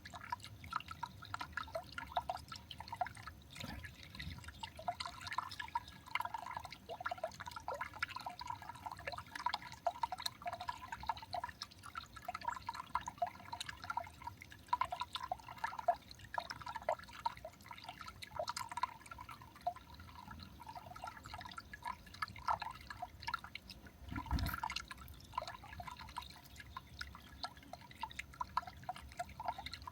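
Water dripping and trickling in a rapid, continuous patter, with a single dull thump about 24 seconds in.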